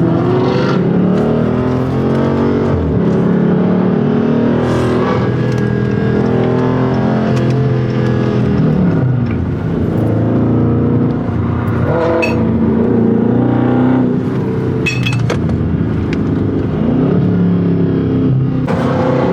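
Several Mopar V8 muscle cars running together, their overlapping engine notes rising and falling as they rev and pull away.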